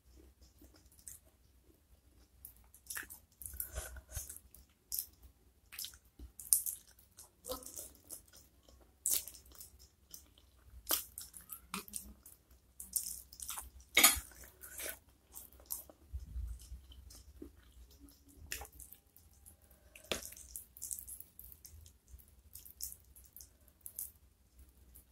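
Close-miked eating of soft-cooked spicy chicken feet: irregular bites and chewing clicks, with the loudest bite about fourteen seconds in.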